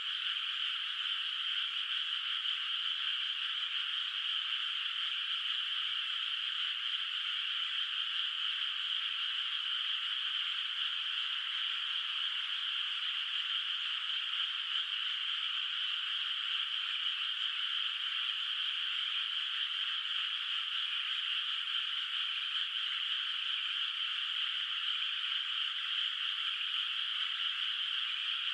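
A dense chorus of many frogs calling together from a flooded rice paddy, forming a steady, continuous din in which no single call stands out.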